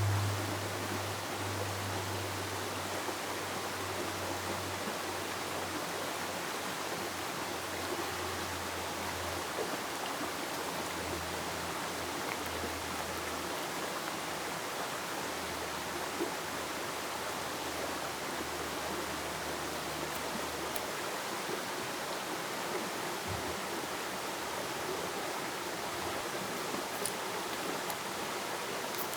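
Steady, even rushing outdoor ambience, with a faint low hum that fades away over the first twenty seconds and a few faint clicks.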